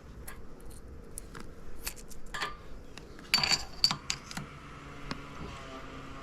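Small steel transmission parts clicking and tapping as synchro hub and damper pieces are handled and seated by hand, with a louder burst of metallic clinking and ringing about three and a half seconds in. A faint steady hum starts about four seconds in.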